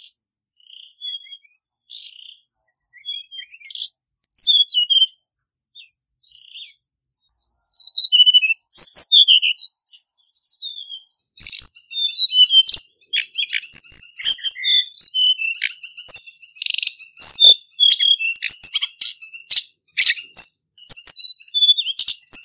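Male hill blue flycatcher singing: quick runs of short, high twittering notes. The phrases are sparse at first and turn denser and louder about halfway through.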